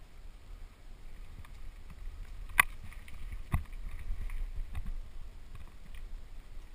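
Mountain bike rolling down a dirt trail: a steady low rumble of tyres and moving air, with scattered rattles and knocks from the bike over bumps. The sharpest knock comes about two and a half seconds in.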